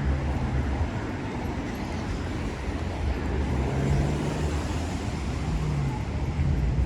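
Road traffic: cars running by with a steady low engine rumble and tyre hiss on wet asphalt. The hiss swells about halfway through as a vehicle passes.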